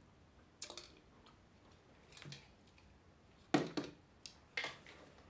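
Close-up eating sounds: a few sharp mouth clicks and smacks while chewing a forkful of greens, with one louder clack about three and a half seconds in.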